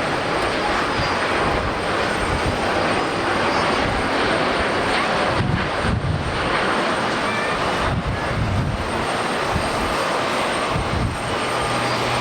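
Jet airliner's engines, loud and steady: an even rushing noise over a shifting low rumble.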